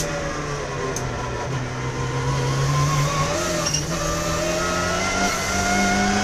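Race car engine running, its pitch dipping in the first two seconds and then climbing steadily as it accelerates.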